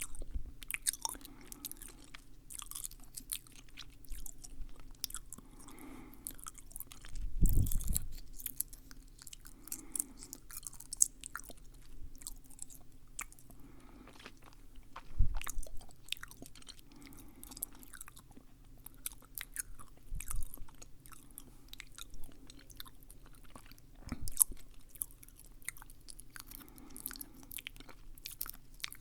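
Close-up ASMR mouth sounds: dense wet clicks and smacks of tongue and lips, like chewing, with a few louder low thumps.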